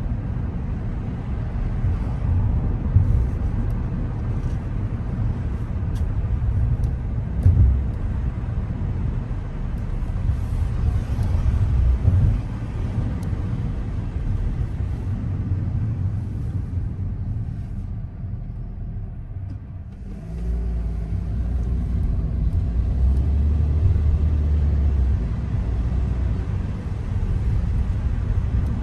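Car driving, with a steady low rumble of engine and road noise and a few light clicks. The rumble dies down for a couple of seconds about two-thirds through, then picks back up.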